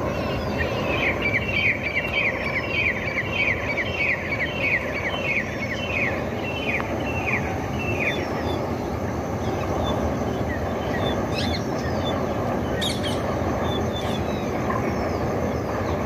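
A bird calling a run of short, downward-sliding high notes, about two a second, for roughly seven seconds, then a few scattered chirps, over steady outdoor background noise.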